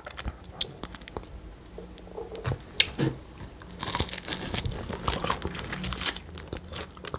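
A person chewing and biting into a crunchy pastry: a run of crisp crunches, busiest from about four to six seconds in.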